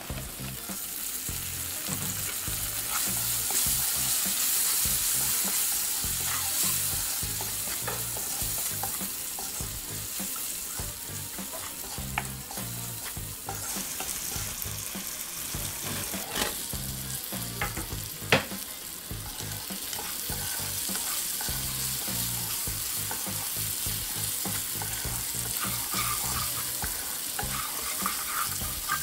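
Mixed vegetables and potatoes sizzling in hot oil in a nonstick wok while being stirred with a wooden spatula. The sizzle is loudest a few seconds in. A few sharp knocks of the spatula against the pan come around the middle.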